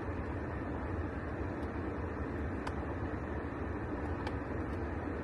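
Steady low road and engine rumble inside a moving car, with a few faint ticks.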